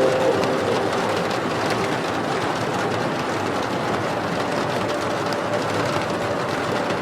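Steady rain, a dense even hiss with faint scattered drop ticks, as a song's last held notes die away at the very start.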